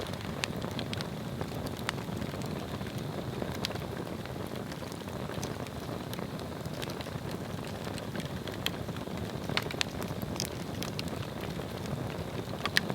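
Swedish torch log fire burning steadily: an even hiss of flame with scattered sharp crackles and pops of burning wood, a few of them louder.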